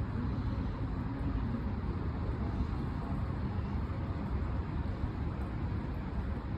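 Shinkansen high-speed train running: a steady low rumble.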